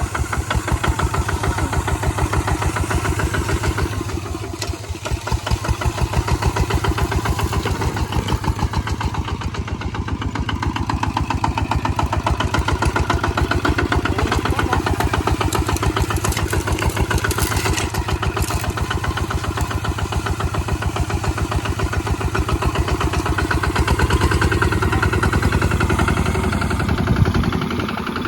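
Kubota ZT155 single-cylinder diesel engine running steadily, with a quick, even run of firing pulses; it eases off briefly about five seconds in and changes near the end.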